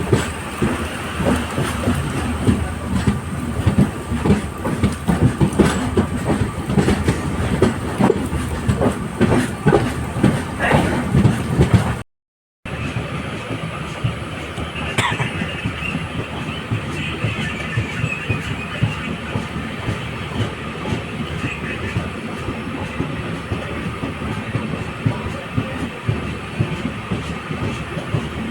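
LHB passenger coach running at speed, its wheels clattering over rail joints above a steady rumble of running noise. The clatter is densest in the first half; the sound drops out for about half a second near the middle and then continues as steadier, slightly quieter running.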